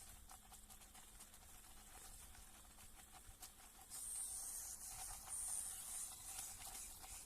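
Small electric motor and plastic gears of a toy brick tractor whirring faintly, with a high hiss and a thin steady whine, growing louder about four seconds in.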